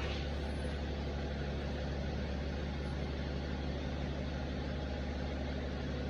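Diesel engine idling steadily: a low, even hum with no change in pitch.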